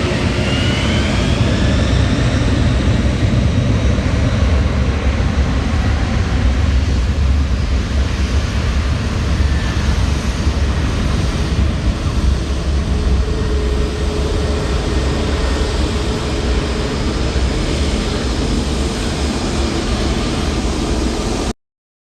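Boeing 747 cargo jet's engines at takeoff power, a loud, steady, deep rumble with a whine rising in pitch just after the start. The sound cuts off suddenly near the end.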